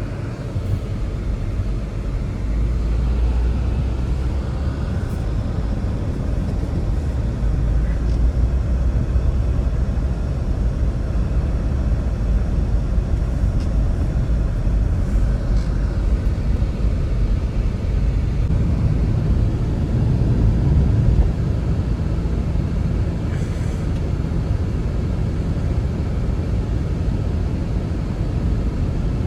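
Strong blizzard wind blowing, heard as a steady low rumble with a few faint ticks.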